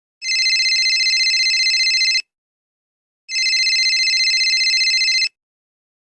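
A telephone ringing: two rings of about two seconds each, about a second apart, each a high, fast-fluttering trill.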